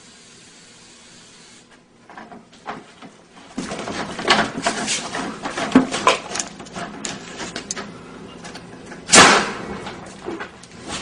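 Clattering and rustling handling noises, a run of knocks and scrapes, with one loud sharp bang or thump about nine seconds in.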